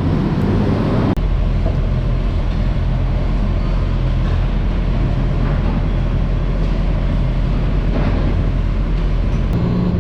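Garbage truck engine running with a steady low rumble.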